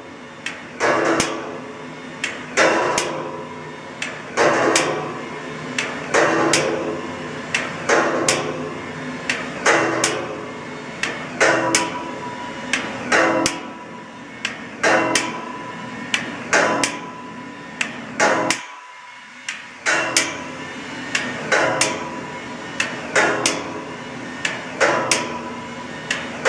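Hammer blows on steel parts of a steam locomotive, a ringing strike about every second and a half to two seconds, some with a quick second hit. The steady pounding is being used to loosen a stuck part.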